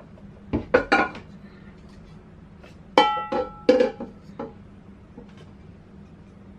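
Dishes and glassware clinking as they are handled and set down, in two bunches of knocks. In the second bunch one piece rings with a clear tone.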